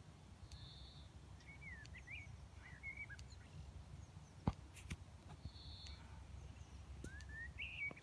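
Birds singing in short warbling phrases that glide up and down, over a low steady background rumble. A single sharp click about halfway through is the loudest sound, with a quieter one just after it.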